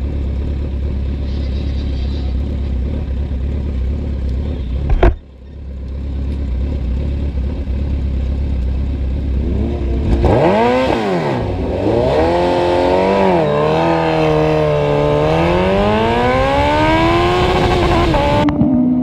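Drag racing motorcycle engine accelerating hard, its pitch climbing and then dropping several times as it shifts gears, before it cuts off suddenly near the end. Before that, a steady low rumble, broken by a single sharp knock about five seconds in.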